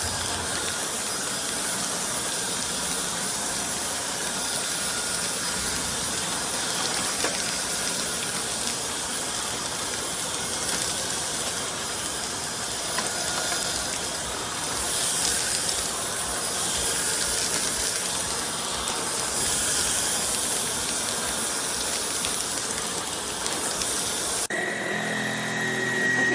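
Trucozie cordless stick vacuum running steadily: motor and airflow hiss with a thin, high, steady whine on top.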